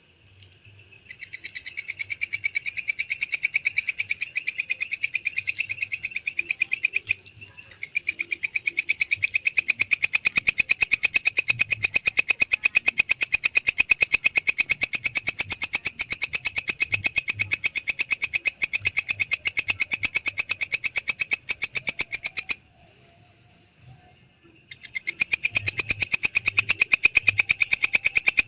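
Recorded songbird singing long, fast, rattling trills of high notes, broken by two short pauses, used as a master song for training a long-tailed shrike.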